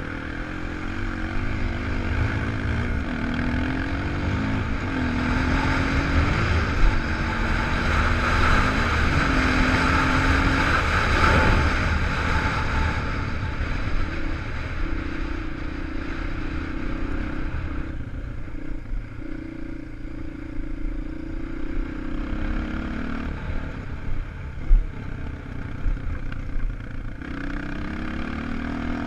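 250 cc single-cylinder enduro motorcycle engine revving up and down as the rider works the throttle and gears on a dirt track. The engine pitch rises and falls repeatedly, with a rushing noise that peaks near the middle and eases off later.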